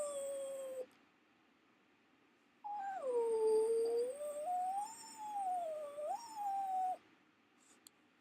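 Dog whining and howling: a cry that trails off just under a second in, then a long wavering cry of about four seconds that slides up and down in pitch. It is a dog's distress crying at being separated from her owner.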